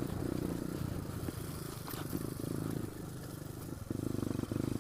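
Pit bike engine running as it is ridden over rocky ground, the throttle opening and closing in short stretches, with a few sharp knocks from the bike hitting rocks.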